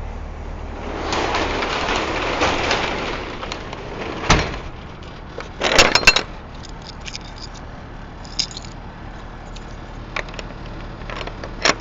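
Keys and a lock being handled: a rough rattling for a few seconds, a sharp metal knock about four seconds in, and a loud clatter near six seconds, followed by scattered light clicks.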